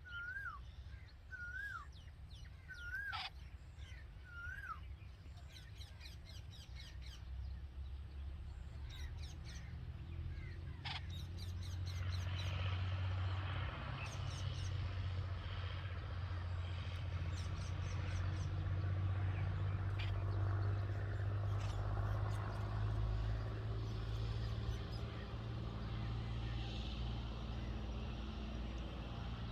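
A bird's clear call repeated five times, a short note that rises then drops, about once a second, followed by scattered faint high chirps. From about halfway in, a steady low rumble and hiss of outdoor background noise grows louder and carries on.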